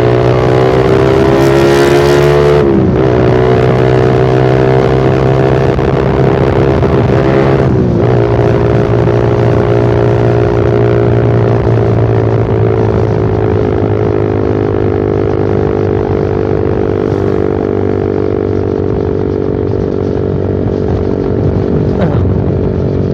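Suzuki Satria FU 150 motorcycle's single-cylinder engine running under way through a short Pro Liner aftermarket muffler with its dB killer removed. The note breaks and picks up again at gear changes about three and eight seconds in, then its pitch slowly sinks as the rider eases off.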